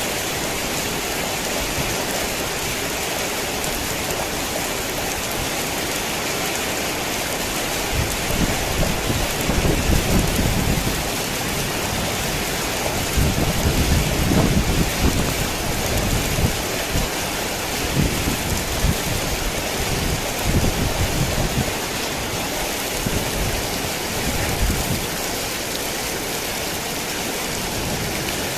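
Heavy rain falling steadily as a dense hiss, with low rolling rumbles of thunder that swell and fade through the middle.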